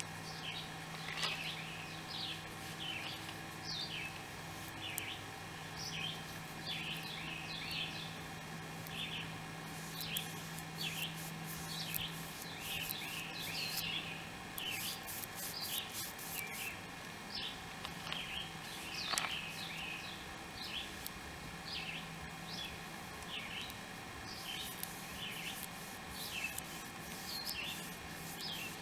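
Small birds chirping, many short high calls in quick runs, over a steady low hum.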